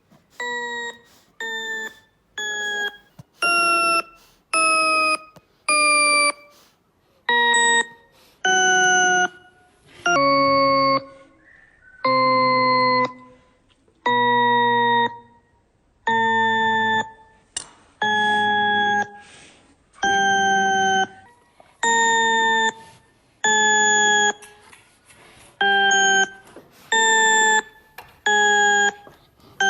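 A series of about twenty buzzy electronic tones, each held for half a second to a second with short gaps between, the pitch changing from one tone to the next.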